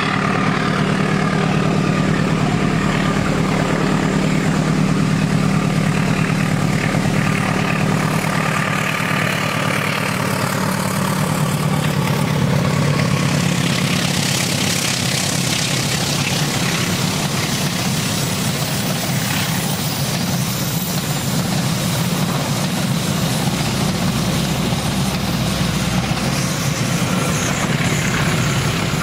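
Diesel-electric locomotive's engine running steadily as it hauls a passenger train around a curve, with wheels rolling on the rails. The noise widens and grows brighter about halfway through as the locomotive passes close, then continues as the coaches roll by.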